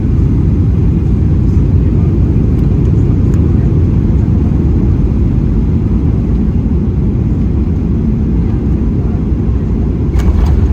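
Steady, loud low rumble inside the cabin of a Boeing 737-800 airliner: engine and airframe noise heard from a window seat.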